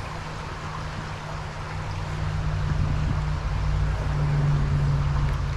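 Creek water running, with a steady low engine hum that grows louder about two seconds in.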